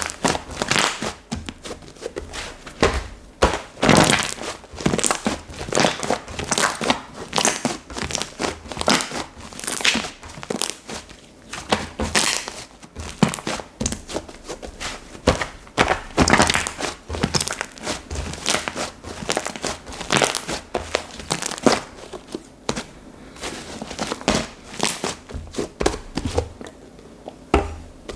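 Hands squishing, stretching and pressing slime, giving dense, irregular crackling and clicking pops.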